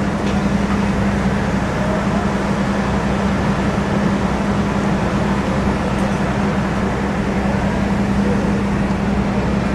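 An engine running steadily at a constant pitch: a steady low hum over a wash of noise, without change.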